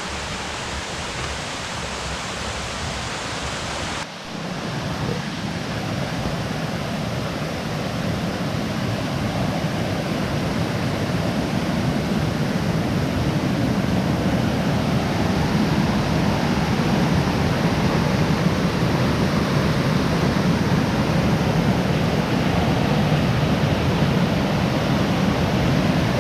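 Waterfall: a steady rush of falling water with a brief dip about four seconds in, after which it grows gradually louder.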